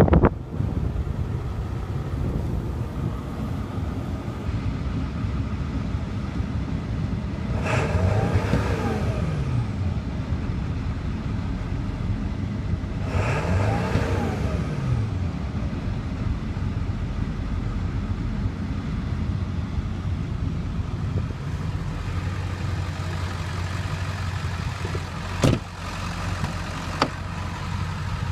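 A Ford 7.3 L Powerstroke V8 turbo diesel runs at a steady idle and is revved up and back down twice, about 8 and 13 seconds in. A single sharp click comes about 25 seconds in.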